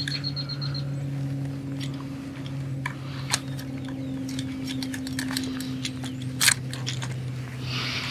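Scattered sharp clicks and taps of a tool working a deeply swallowed hook out of a redfish's mouth, two of them louder about three and six and a half seconds in. Under them runs a steady low hum, and a bird trills briefly at the start.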